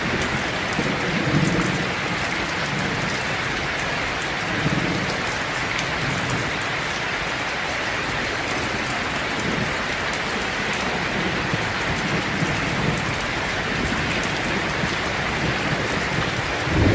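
Steady rain falling, an even hiss of many drops. A faint low rumble comes in a few times, as from distant thunder.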